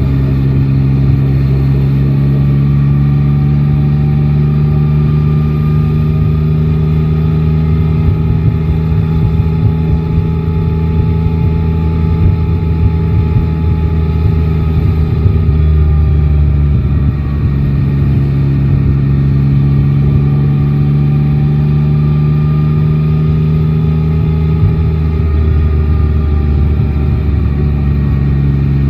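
Yamaha Tracer 9 GT's 890 cc inline-three engine running on the road at a steady engine speed, its note easing up and down slightly, with a brief drop about halfway through and another later on. Wind rush runs underneath.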